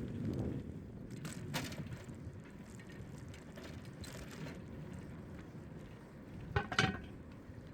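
Bicycle riding along a city cycle path: wind and tyre rumble with scattered mechanical clicks and rattles from the bike, and a short, louder clatter with a brief ring near the end.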